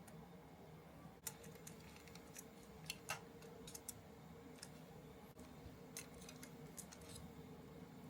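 Faint, scattered small clicks and ticks of model-kit parts and hand tools being handled during assembly, the sharpest a little over a second in and twice about three seconds in, over a steady low hum.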